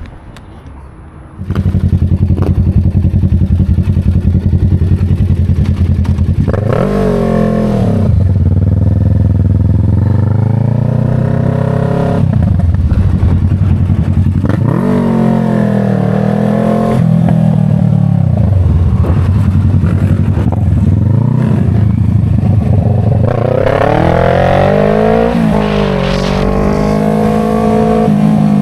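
Motorcycle engine under way, rising in pitch as it accelerates and dropping back at each gear change, several times over. It comes in loud about a second and a half in.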